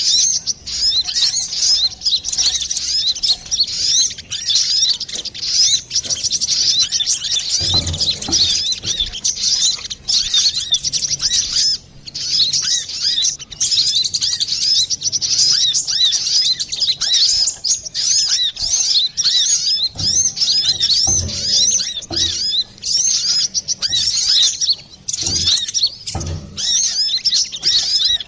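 Brown-throated sunbird (kolibri kelapa) singing a fast, continuous run of high, clear chirps and twitters. A few faint low thumps fall in the second half.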